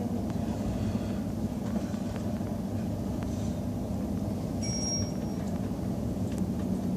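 Steady low rumble of a moving high-speed train, heard from inside the carriage. A short, thin high tone sounds for about half a second around five seconds in.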